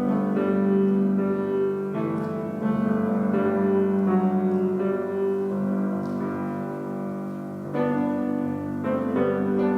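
Piano music: slow sustained chords, with new chords struck at intervals.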